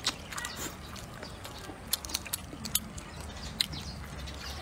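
A person chewing braised goose meat with wet smacking and clicking mouth sounds, the sharp smacks coming irregularly, a few a second at times.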